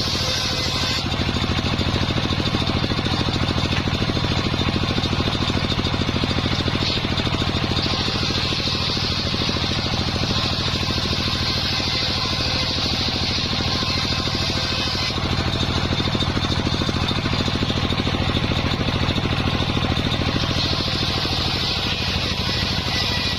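Circular sawmill running steadily, cutting wadang timber into beams. The blade's cutting hiss grows louder and eases off in stretches as it passes through the wood: loud for about the first second, again from about a third of the way in to past the middle, and again near the end.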